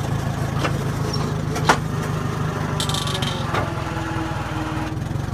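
Old Oliver tractor's engine running steadily at idle, with two sharp knocks in the first two seconds and a brief hiss about three seconds in.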